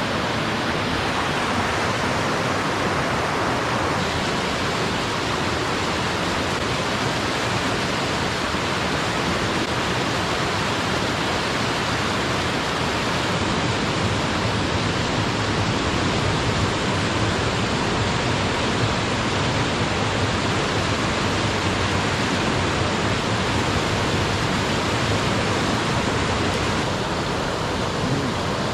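Mountain stream water rushing over rocks in a steady, unbroken flow.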